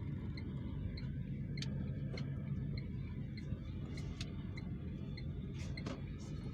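Car turn-signal indicator ticking steadily, about three ticks a second, over the low engine and road rumble heard inside the cabin. A few sharper clicks come in now and then.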